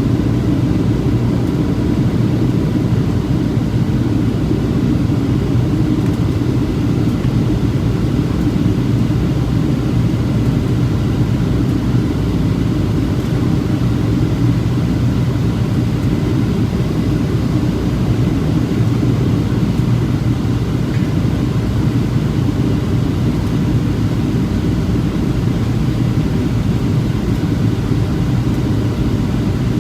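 Steady low rumble and hiss of a Boeing 737-700 in flight, airflow and engine noise heard from inside the aircraft, unchanging throughout.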